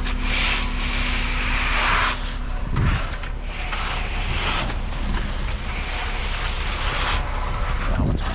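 A large engine runs steadily with a low rumble, under repeated gusts of wind buffeting the microphone.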